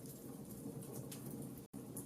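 Wood fire crackling, with sharp pops and snaps over a steady low rumble of flames. The sound cuts out for an instant near the end.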